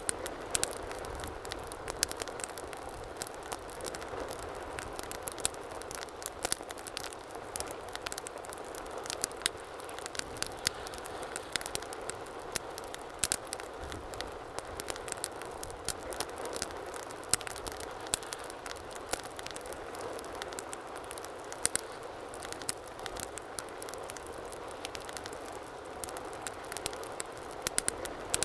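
Wood fire in a fireplace crackling, with frequent sharp irregular pops and snaps over a steady soft rushing of the flames.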